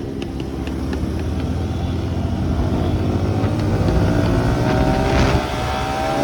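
Motorcycle engine running, its note rising gradually and growing louder over several seconds, loudest about five seconds in.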